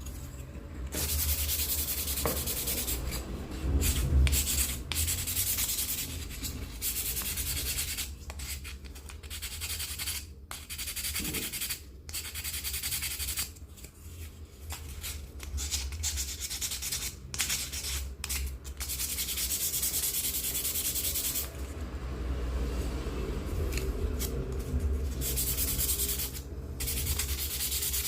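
Wood being sanded: abrasive rubbing against a carved wooden scoop in passes of one to a few seconds, broken by short pauses.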